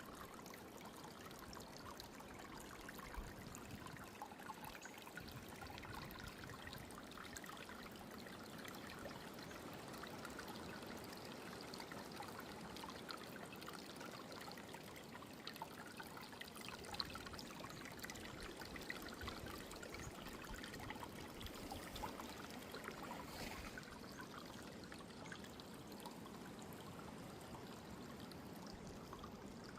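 Faint, steady running water, a trickling stream, with a few light ticks.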